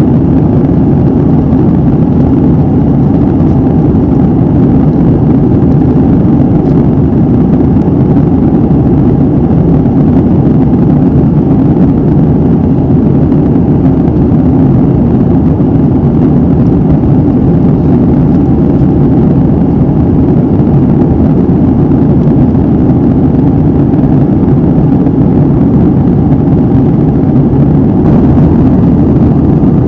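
Airliner cabin noise heard from a window seat: a steady, loud low drone of jet engines and airflow with no changes.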